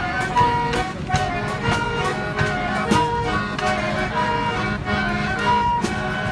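Live brass band music: horns play a lively melody over a steady beat of drum and cymbal hits.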